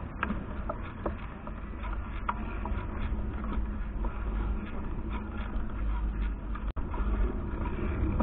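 Wind and road rumble on a bicycle handlebar-mounted camera while riding, with scattered small clicks and rattles from the bike.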